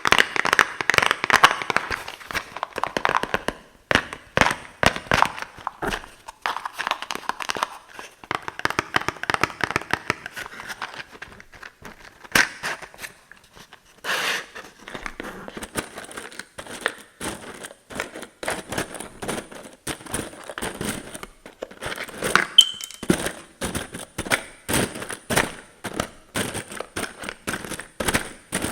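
Fingernails tapping and scratching on cardboard boxes in quick, irregular strokes, with scratchier stretches in the first few seconds and faster, crisper tapping in the second half.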